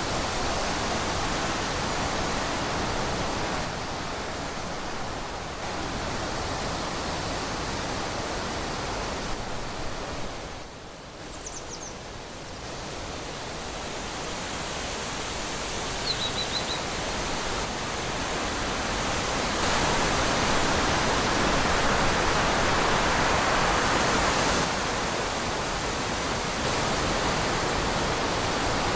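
Wind blowing through trees, rising and falling in gusts, with a lull about a third of the way in and the strongest gust past the middle. Two faint, brief high chirps sound during and just after the lull.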